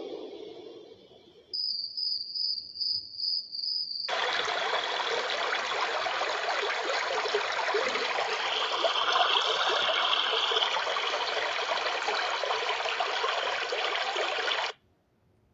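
Dreamegg Pocket Sleep 1 mini white noise machine switching through its soothing sounds. A sound fades out, then a high chirp pulses about twice a second for a couple of seconds. Then a steady running-water stream sound plays for about ten seconds and cuts off suddenly near the end.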